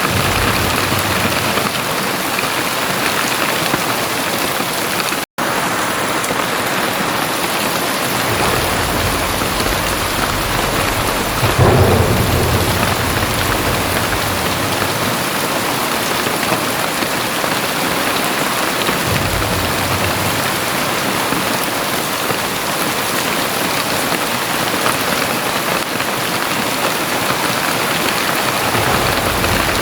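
Heavy rain pouring steadily, with thunder rumbling low several times, loudest near the middle. The sound drops out for a split second about five seconds in.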